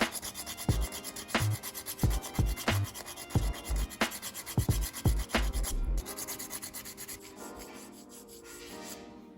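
Hand abrading of a small diecast model part: quick, irregular rubbing strokes that stop about six seconds in. Soft music sits underneath and fades near the end.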